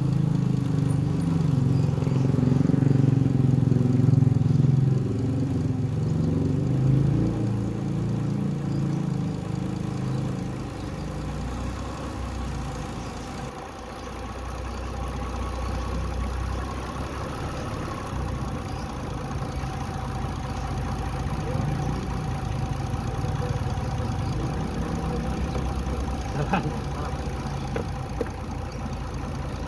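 Mitsubishi Galant V6 engine running, louder and uneven for the first several seconds, then settling to a quieter, steady idle. A brief click comes near the end.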